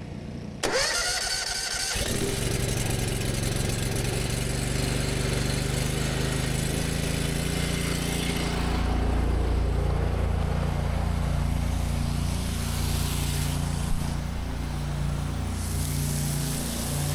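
The engine of an 8 GPM pressure washer starting under a second in, its pitch rising for about a second as it catches and comes up to speed, then running steadily.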